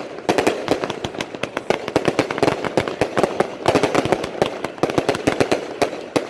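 A consumer fireworks cake firing, heard close up: a dense, rapid string of sharp bangs and crackles with no pause.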